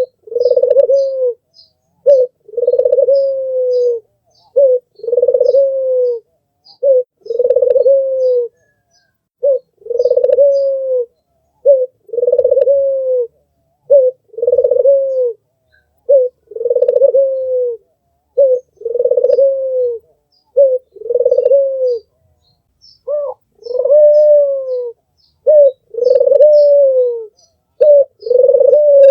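Albino Barbary dove (puter) cooing over and over: each coo is a short note followed by a longer, falling note, repeated about every two seconds. Faint high chirps from small birds sound in the background.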